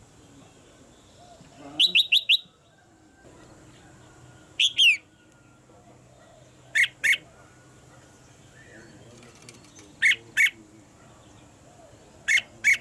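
Red-whiskered bulbul calling: short bright phrases of two to four quick notes, repeated about every two to three seconds, the first phrase a run of four notes.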